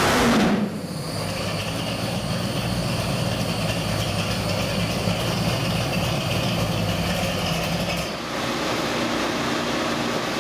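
Ford 501 cubic-inch big-block stroker V8, built on a 460 block with a hydraulic roller cam and MSD Atomic EFI, dropping back from a rev in the first half second and then idling steadily, with a brief dip in the sound about eight seconds in.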